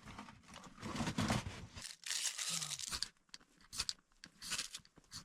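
Tinder and kindling being crunched, torn and crinkled in irregular bursts while a wood stove fire is rekindled on leftover coals.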